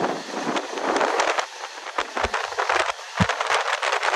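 Mumbai suburban local train running between stations, heard as a rushing noise of wind on the microphone with many sharp clicks and crackles and a few low thumps.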